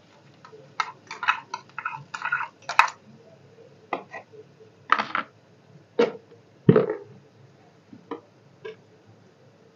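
Metal spoon scraping and tapping a steel bowl as tomato purée is tipped into hot oil, then the purée frying in the pan with scattered sharp pops and spits. The loudest pops come about five to seven seconds in.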